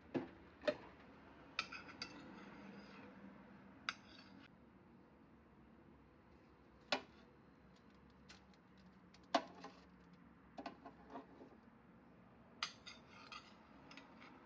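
Scattered clinks and knocks of dishes and cutlery being handled, about a dozen separate sharp sounds, some ringing briefly, over a faint steady hum.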